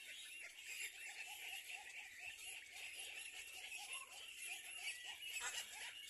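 Birds chirping rapidly and continuously: many short, high chirps overlap several times a second, with a lower string of repeated short calls beneath them. A slightly louder call comes near the end.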